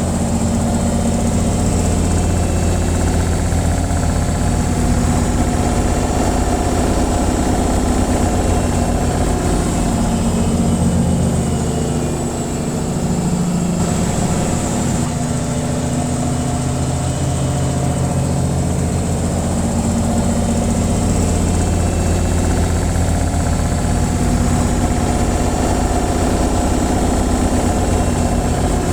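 Washing machine on its spin cycle: a steady, low mechanical hum with a slight dip in loudness about twelve seconds in.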